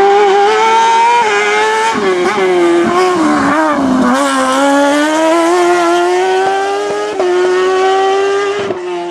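Hillclimb race car's engine at high revs accelerating hard up the course. The pitch dips about four seconds in, then climbs steadily again.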